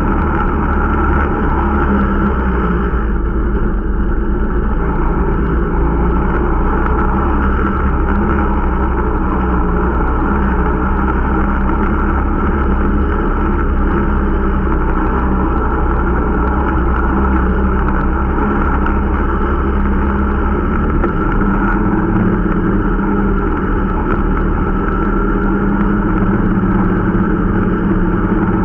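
Irbis Dingo T125 snowmobile's single-cylinder 125 cc four-stroke engine running steadily under way, with the engine note shifting slightly about three-quarters of the way through.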